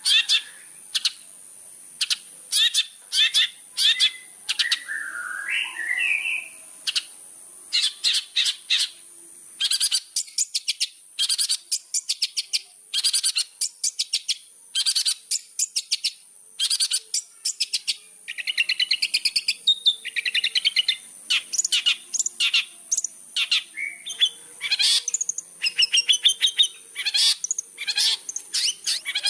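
Long-tailed shrike (cendet) in full, prolific song: rapid runs of sharp, chattering notes, broken by a few warbled, gliding phrases.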